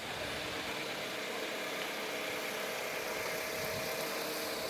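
Beetles buzzing in flight: a steady, drone-like hum with a held tone that grows clearer about halfway through.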